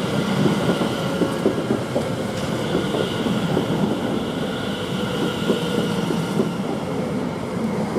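Class 720 electric multiple unit running slowly alongside the platform: a steady electric whine over a rapid, uneven rattle.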